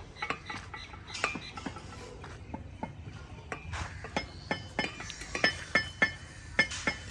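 Metal hand tools clinking and tapping with a short metallic ring, in irregular strikes that come faster and louder in the second half.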